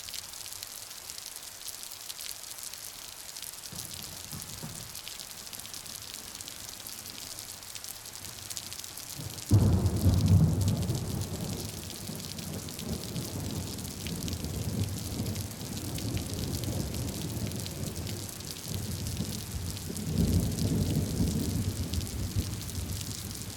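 Steady rain, with a sharp roll of thunder breaking about ten seconds in and rumbling on, then swelling again near the end.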